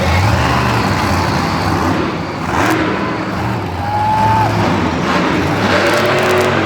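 Monster truck engine running loud and deep, its pitch and level shifting as the throttle comes on and off.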